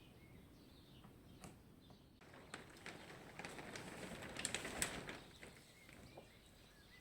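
Faint bird chirps, with a stretch of rustling and clicking starting about two seconds in that is loudest near five seconds and then dies down.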